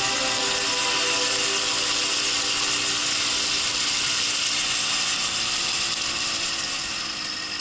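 Two-stroke single-cylinder engine of a Minsk motorcycle running steadily with wind hiss, getting a little quieter near the end.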